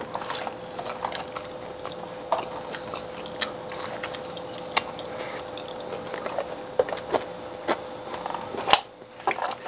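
A person eating close to the microphone: chewing and biting food, with irregular wet mouth clicks and smacks. A faint steady hum runs underneath.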